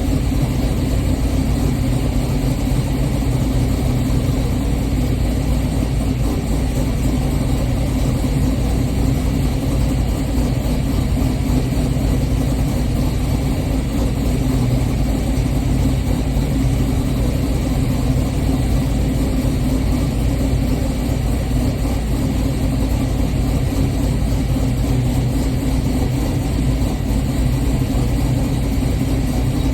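6.0-litre LS V8 swapped into an Oldsmobile Cutlass, idling steadily as it warms up after a cold start.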